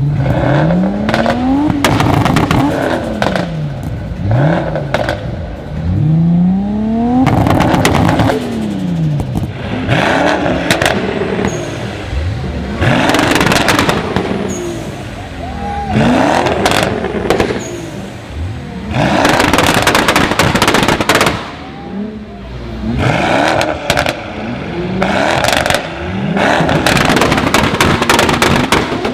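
A sports car's engine revved hard over and over while standing still: more than a dozen blips, each rising quickly in pitch and falling back, with loud rasping peaks at the top of the revs.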